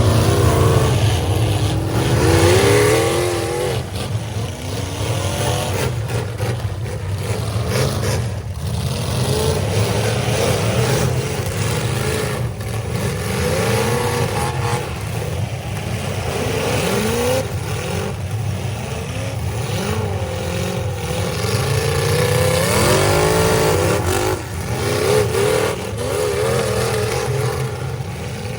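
Several demolition derby cars' engines revving up and down together over a low rumble, broken by a handful of sharp impacts as the cars collide.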